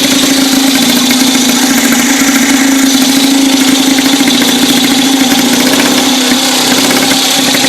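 1914 New Hudson's 211cc single-cylinder two-stroke engine idling steadily out of gear, with a fast, even beat.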